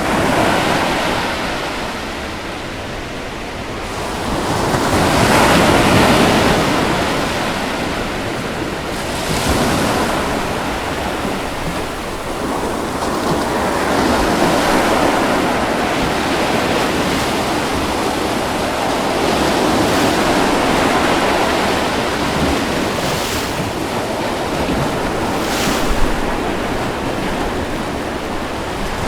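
Ocean waves washing onto a beach: a continuous surf wash that swells and eases every few seconds, loudest about five seconds in.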